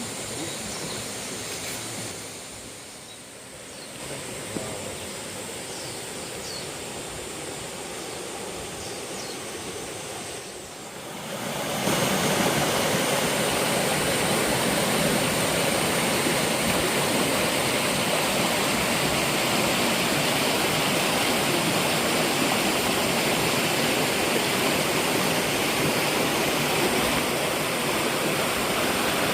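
Rushing water of a mountain stream and waterfall, a steady hiss; it becomes markedly louder about twelve seconds in and stays there.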